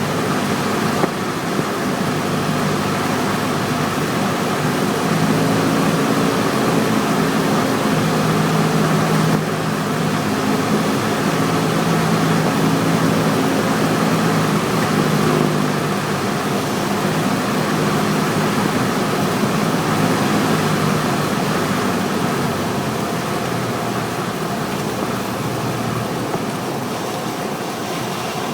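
Cessna 172's piston engine and propeller running steadily, heard from inside the cabin as a constant drone over a rushing noise. It is a little louder through the middle and eases off toward the end.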